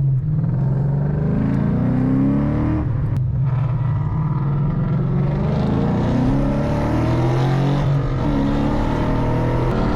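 Car engine accelerating hard, its pitch climbing and dropping back at each gear change, several times over.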